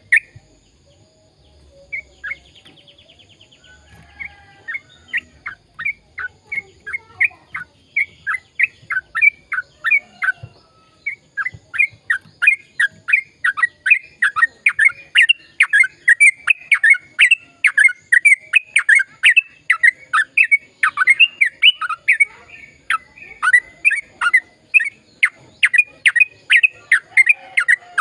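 Yellow-vented bulbul (trucukan) singing in a long, rapid run of short, sharp notes. A few scattered notes come first, then a dense run of several notes a second from about four seconds in.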